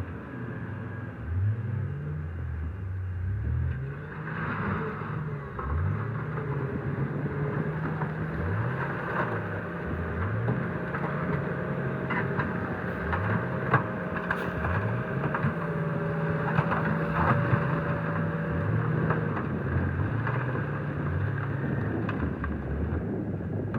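Heavy machinery engine running, its pitch sweeping up and down again and again, with scattered knocks and clatter about halfway through.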